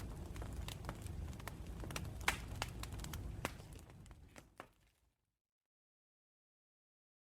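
Campfire crackling and popping with sharp snaps over a low rumble of burning, fading out about four to five seconds in to complete silence.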